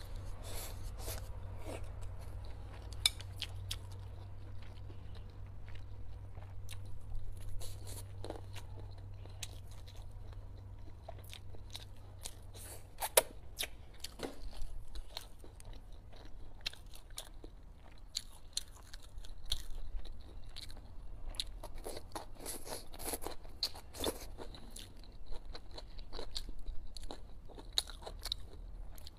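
A person eating close to the microphone: chewing and biting braised pork ribs with chili and stir-fried greens, with wet crunching and many short sharp clicks, the loudest about halfway through. A low steady hum runs underneath.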